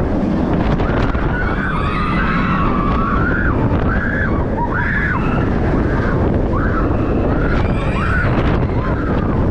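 Strong wind buffeting the microphone in a continuous heavy rumble. Over it come repeated short, high-pitched cries that rise and fall, each lasting under a second, from about a second in to near the end.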